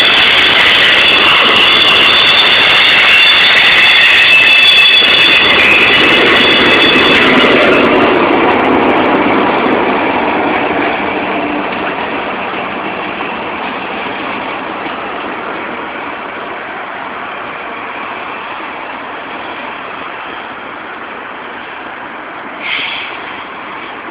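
Union Pacific double-stack container freight train rolling past, its wheels squealing in several high tones for about the first eight seconds. The rumble then fades steadily as the train moves away. A brief high squeak comes near the end.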